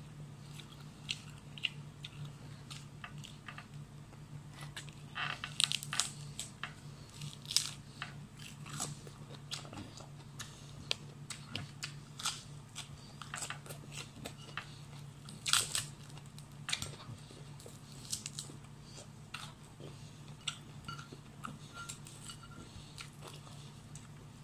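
Close chewing and crunching of food, with irregular wet clicks and crunches as she bites and picks at the pieces by hand. A steady low hum runs underneath.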